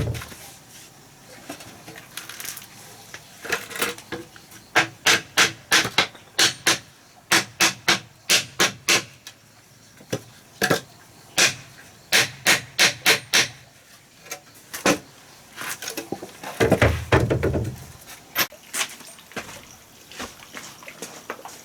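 Runs of sharp wooden knocks, about four a second in several bursts, with a low thud right at the start and a longer low rumbling thump about two-thirds of the way through.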